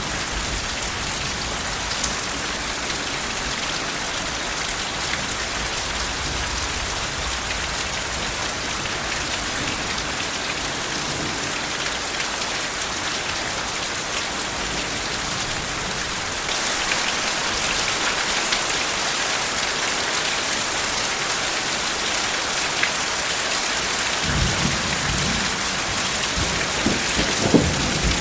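Steady heavy rain falling, growing a little louder and brighter about halfway through, with soft low thunder rumbling in near the end.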